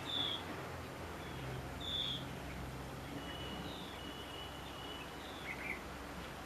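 Outdoor ambience with short, high bird chirps about two seconds apart, a thin held high note near the middle, and a few faint calls later, over a steady low rumble and background hiss.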